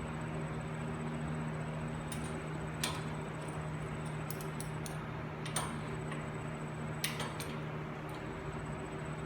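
Scattered light metallic clinks and taps, about ten at irregular intervals, from hand tools and metal parts being handled during wheel hub assembly, over a steady low hum.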